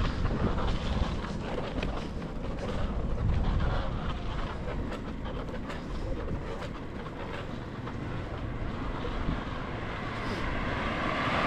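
Wind on the microphone and road noise during a bicycle ride, with vehicle traffic in the background.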